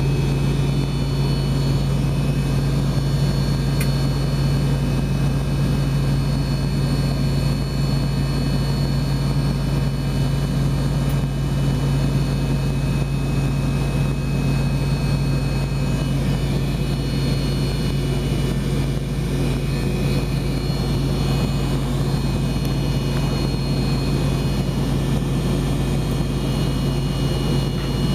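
Steady drone of an MD-88's rear-mounted Pratt & Whitney JT8D engine idling, heard inside the rear cabin: a strong low hum with thin, steady high whining tones above it. Only one engine is running; the other has not yet been started.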